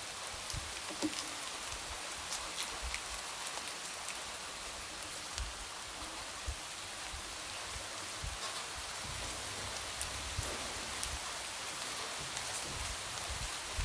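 Light rain: a steady hiss with many small drops ticking through it.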